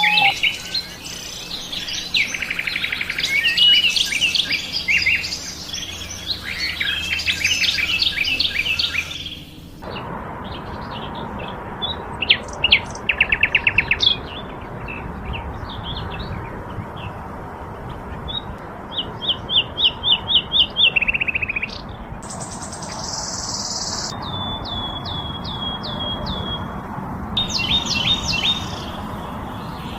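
Songbirds chirping and singing: a dense chorus of overlapping calls at first, then, after an abrupt splice about a third of the way in, separate chirps and rapid trills over a steady background hiss.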